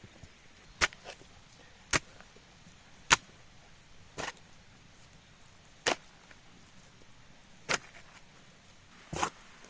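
Wood being chopped with an axe: seven sharp, single strikes at an uneven pace, one to two seconds apart.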